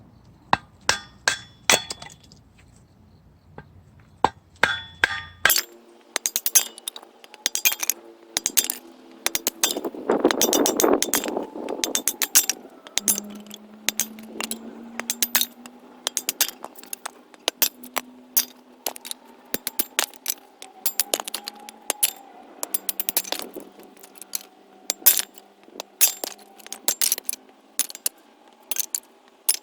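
Rapid series of sharp knocks and metallic clinks, like hammer blows on metal and wood, a few at first and then two to three a second from about five seconds in. A low steady hum runs under them from the same point.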